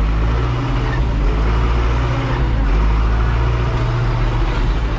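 A vehicle's engine running steadily as it drives, a low drone over road noise, with a brief dip about two seconds in.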